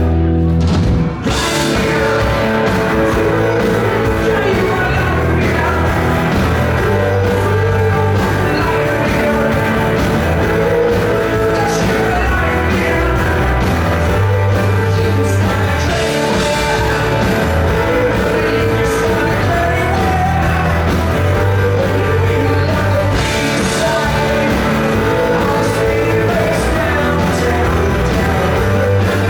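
Rock band playing live at full volume, with singing over the band; the sound dips briefly about a second in.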